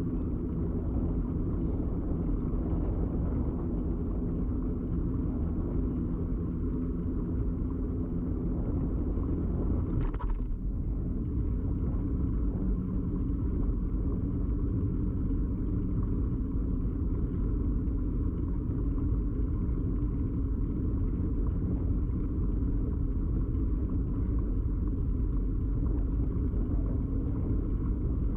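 Steady rumble and hum of a bicycle in motion, carried through the frame to a camera clamped to the bike, with a short knock about ten seconds in.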